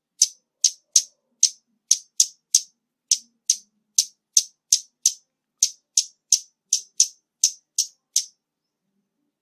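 Scarlet-backed flowerpecker giving a rapid series of sharp, high ticking calls, about three a second, stopping about a second before the end.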